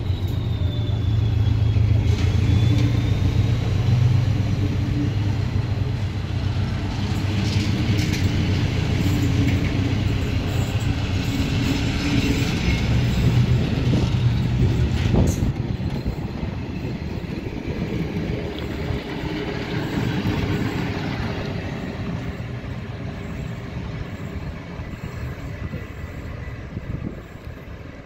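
Passenger train of vintage coaches rolling slowly past, wheels knocking over the rail joints, with a steady low hum through the first half. The sound fades over the second half as the train draws away.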